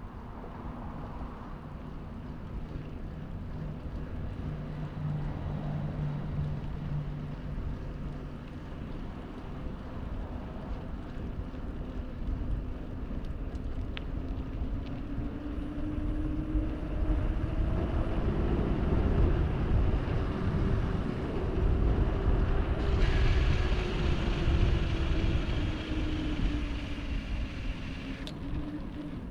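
Wind rumbling on the microphone during a bicycle ride, with road traffic around. In the second half a vehicle's engine tone slowly rises and falls as it passes, and a hiss joins in for a few seconds near the end.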